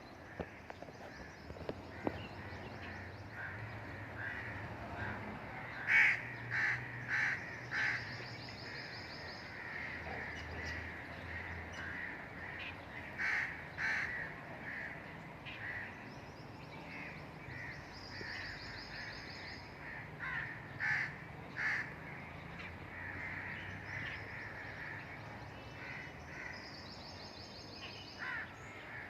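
Birds calling: runs of three to five short, loud calls about half a second apart, over steady chirping and trilling from other birds.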